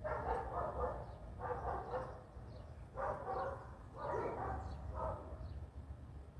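An animal calling in short bouts, about five in a row, with faint high chirps above them.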